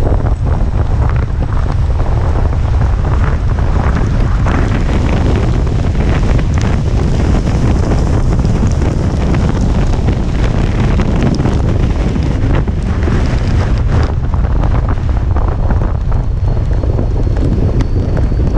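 Strong typhoon wind buffeting a GoPro's microphone in a loud, continuous low rumble with irregular gusts, over the hiss of wind-driven rain.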